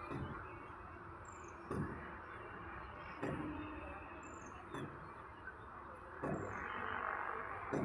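Regular knocks, about one every second and a half, over a steady background, with a faint high falling chirp recurring between them.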